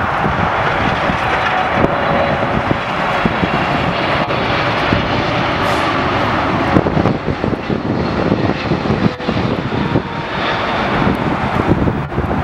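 Airliner engines running loud, a steady rushing roar with a faint whine through it.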